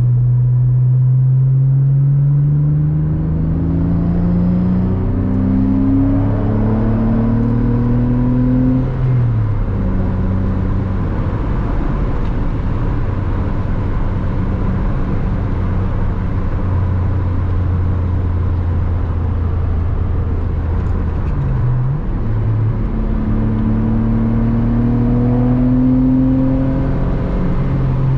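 Porsche Boxster 986 flat-six engine under way, its pitch climbing as the car accelerates in the first third, then holding steady at cruise. About 22 seconds in it drops briefly and then climbs again as the car accelerates once more.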